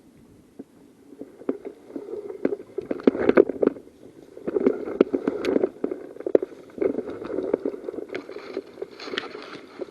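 Footfalls and the rustle of clothing and kit close on a body-worn microphone, as someone moves quickly through grass and undergrowth. The steps and crunches come in uneven surges, loudest a few seconds in.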